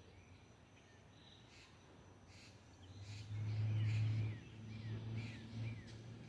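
Birds chirping: short high calls about once a second, with a few quick falling notes in the second half, over a faint steady high tone. A low rumble swells about three seconds in and then fades unevenly, and it is the loudest sound.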